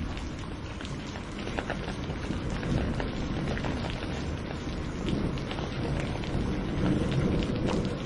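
Steady heavy rain, with many individual drops ticking close by, under a low thunder rumble that swells twice, in the middle and near the end.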